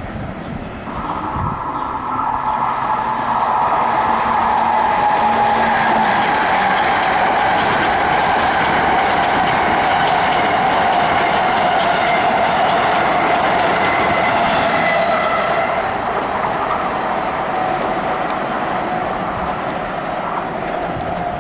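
Long Island Rail Road train passing close by. Its rumble builds over the first few seconds, holds loud with a whine that sinks slightly in pitch, then eases off over the last few seconds.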